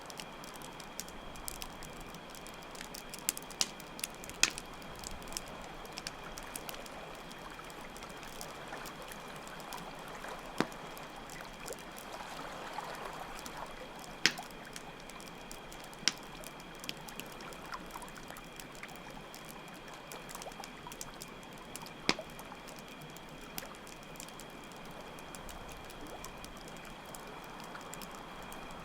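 Layered night ambience: trickling water over steady cricket chirping, with campfire crackles and occasional sharp pops from the fire.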